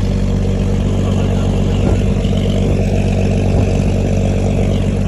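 Fishing boat's engine running steadily at a constant pitch, with a couple of short knocks about two and three and a half seconds in.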